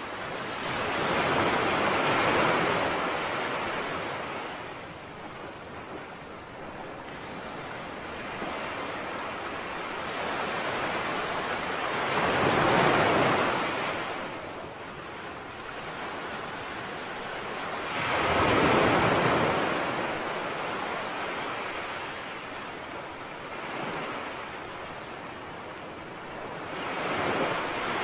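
Sea waves breaking on a shore: four separate surges of surf, each swelling up and falling away over a few seconds.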